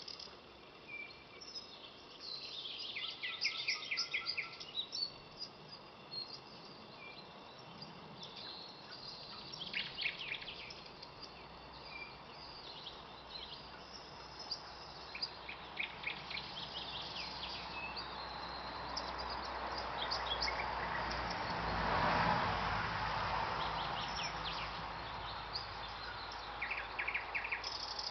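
Thrush nightingale singing: separate phrases of fast repeated notes with pauses between them. About two-thirds of the way through, a broad rushing noise swells and fades under the song.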